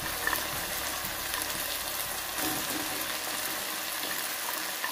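Tomato-sauce masala with oil sizzling steadily in a kadai as fried chicken pieces go in, with a few faint clicks.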